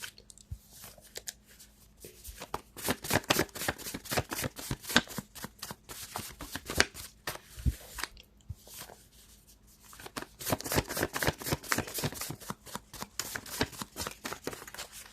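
A deck of tarot or oracle cards being shuffled by hand: two long runs of quick dense card clicks and flicks, with a short pause about halfway through.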